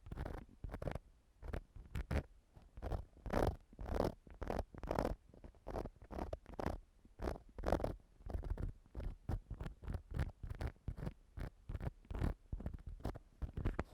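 Ear-cleaning tool scratching and rubbing against a microphone in quick, uneven strokes, a few per second.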